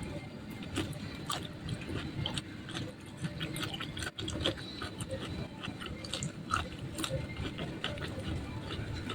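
Close-miked chewing of crispy fried food: many short, irregular crunches and mouth clicks over a low, steady background hum.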